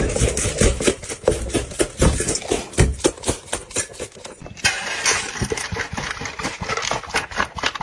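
A dog eating noisily close to the microphone: rapid, irregular wet smacking and chomping clicks.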